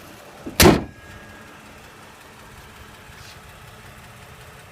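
2015 Toyota Highlander's 3.5-litre V6 idling steadily, with one loud thump well under a second in.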